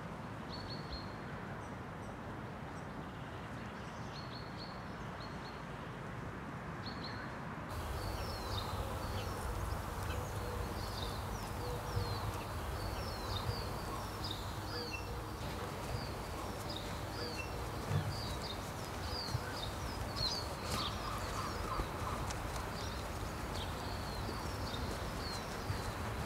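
Small birds chirping: many short, quick high chirps over a steady outdoor background noise, which grows fuller about eight seconds in.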